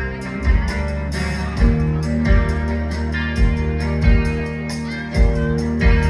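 Live rock band playing an instrumental passage: distorted electric guitar chords over bass guitar and a steady drum beat.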